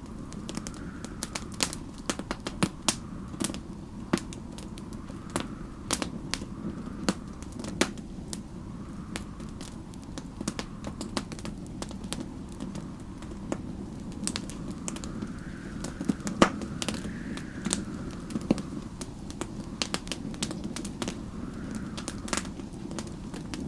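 Wood fire crackling in a fireplace, with frequent sharp irregular pops over a steady low rumble. A faint storm wind rises and falls behind it every few seconds.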